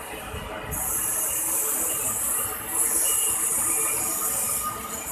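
Container flat wagons of a long freight train rolling past close by: steady rumble of steel wheels on the rails, with a high hiss that comes in under a second in, dips briefly about halfway and comes back.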